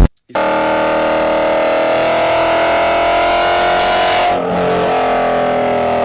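V8 car exhaust under acceleration, its note rising slowly and steadily in pitch, with a brief break about four seconds in before it carries on.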